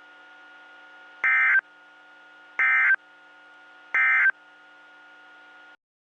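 Emergency Alert System end-of-message signal: three short, loud bursts of warbling digital data tones about a second and a half apart, closing the severe thunderstorm warning broadcast. A faint steady hum from the broadcast runs beneath them and cuts off near the end.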